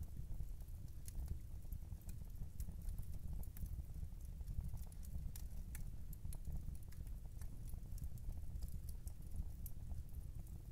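Wood fire burning in a fireplace: irregular sharp crackles and pops over a steady low rumble, with a clock ticking in the background.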